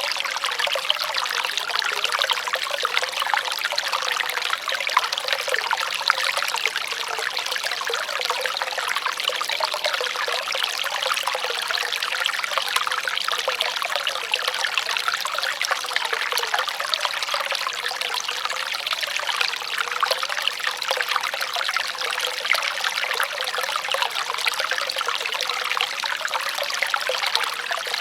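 Running water trickling and babbling steadily, a dense, even rush of small splashes with no pause or change.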